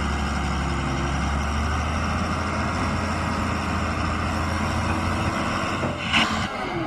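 Diesel engine of a Tata backhoe loader running steadily under work. Near the end comes a brief, loud hiss.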